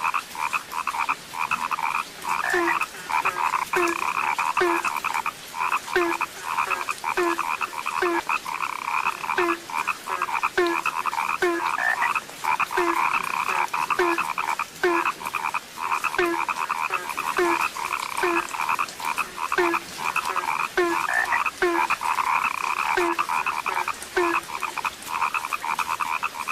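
A dense chorus of frogs croaking, with one deeper-voiced call repeating every second or so until near the end.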